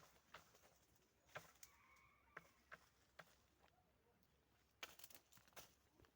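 Near silence, broken by a dozen or so faint, scattered clicks and crackles, with a faint thin high tone for under a second about two seconds in.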